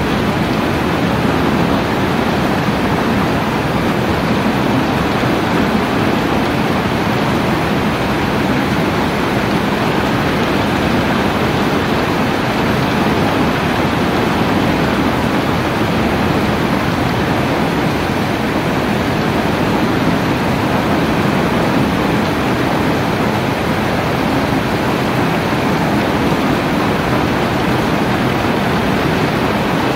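Heavy rain falling steadily, an even rushing hiss that never lets up.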